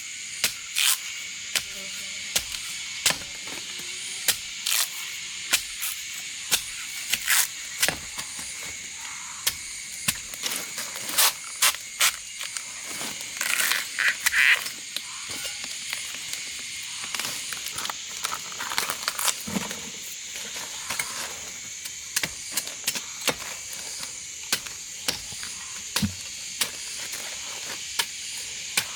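Irregular sharp knocks and clicks, some close together, with a denser cluster about halfway through, over a steady high hiss.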